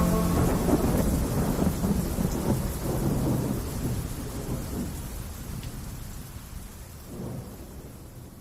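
Rain with rumbling thunder, fading away steadily until it dies out near the end.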